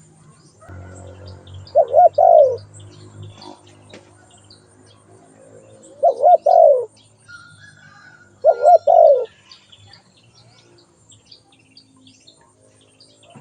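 Spotted dove cooing: three calls a few seconds apart, each a short phrase of a few low coos, with faint small-bird chirps behind.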